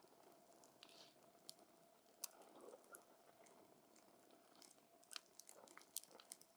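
Wood campfire burning, with scattered sharp crackles and pops from the burning wood over a faint hiss.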